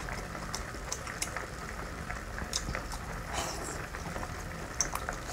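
Wet mouth sounds of someone biting and chewing cooked sea snail meat, with small scattered smacks and clicks.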